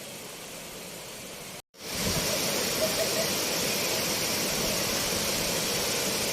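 Waterfall rushing, a steady even noise; it cuts out for an instant a little under two seconds in and comes back louder.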